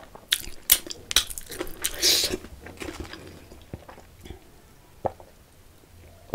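Close-miked wet chewing and sharp lip smacks of a mouthful of rice and egg curry eaten by hand, loudest in the first two and a half seconds. Then quieter sips and swallows of water.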